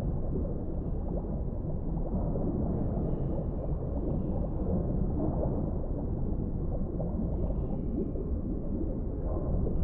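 Underwater ambience: a steady, deep wash of water noise, with faint high tones drifting in about three seconds in and again near eight seconds.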